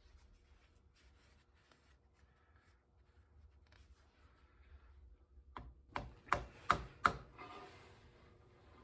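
Faint rubbing and handling noises, then four sharp knocks in quick succession, about three a second, some six seconds in.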